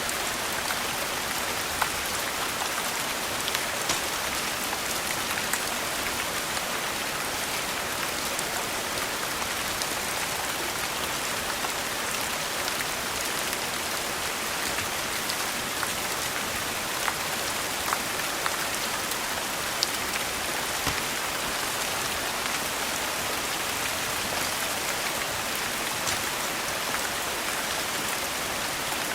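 Steady rain falling, an even hiss with occasional short, sharp ticks scattered through it.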